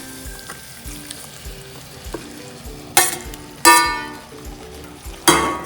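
Chicken sizzling in an onion-tomato masala as it is stirred in a metal pot, with three sharp ringing clanks of a metal spoon against the pot: two about three seconds in, one near the end. Background music plays underneath.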